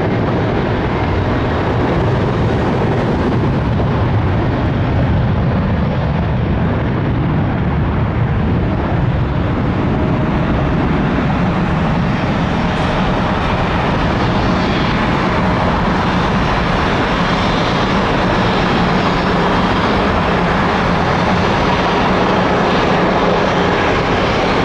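Jet airliner engines, a loud steady rush of noise with a faint low drone underneath.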